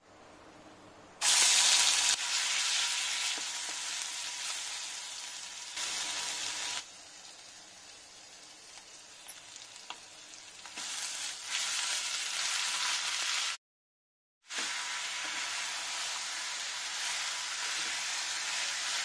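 Ginger-garlic paste hitting hot oil in an iron kadai, sizzling loudly as it goes in about a second in, then frying on as chicken pieces are added and stirred with a wooden spatula. The sizzle cuts out for about a second past the middle.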